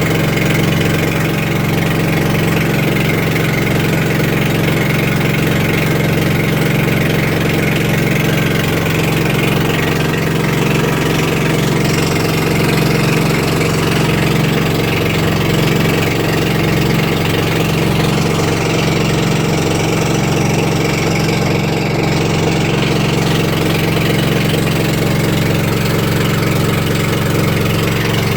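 Boat engine running at a steady speed, an even, unchanging drone.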